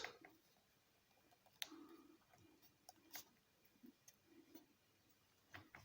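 Near silence, with faint handling of origami paper as it is folded and creased: a few light clicks, about 1.6 and 3 seconds in, and soft rustles.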